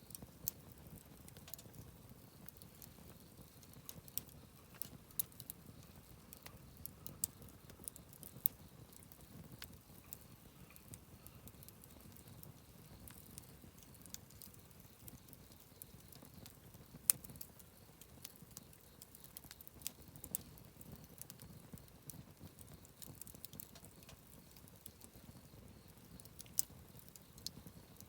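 Wood campfire crackling quietly: scattered sharp pops and snaps over a low, steady rustle from the flames, with one louder pop about seventeen seconds in.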